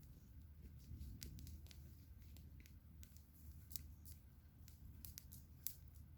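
Campfire crackling faintly: irregular sharp pops and snaps, a few each second, over a low steady rumble.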